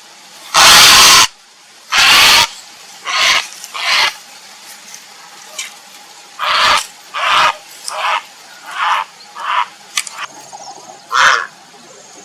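Grey heron giving harsh, rasping calls. Two long, loud ones come in the first couple of seconds, then about eight shorter, fainter ones follow at uneven gaps of half a second to two seconds.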